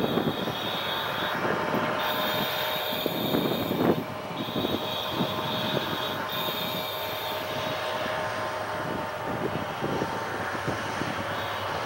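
Freight train wagons rolling past, wheels clattering with many irregular clicks and knocks over the track, and a high ringing tone that comes and goes.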